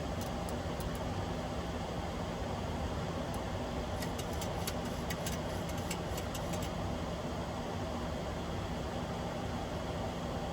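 Steady flight-deck noise of a Boeing 737-800 in flight: a constant rush of air and engine rumble with a low hum. About four seconds in comes a short run of faint, thin clicks that lasts for roughly three seconds.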